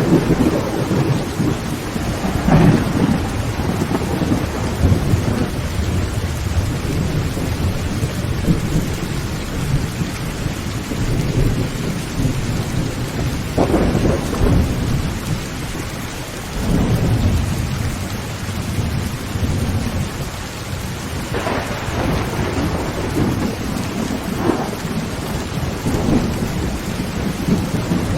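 Heavy rain pouring steadily on a tin roof under low rolling thunder, with a few sharper thunder cracks, the clearest about halfway through.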